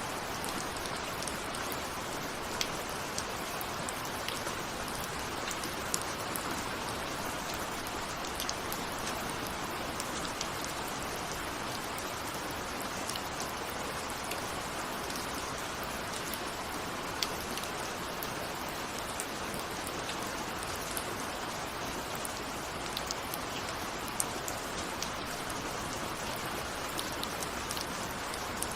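Steady rain, with many individual raindrops ticking against a window pane over a continuous hiss of falling rain.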